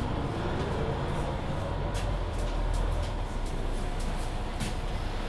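Mercedes-Benz Citaro C2 hybrid city bus driving, heard from inside the cabin: a steady low rumble of engine and road, with a drivetrain whine rising in pitch over the first two seconds as the bus picks up speed. A few short rattles come through.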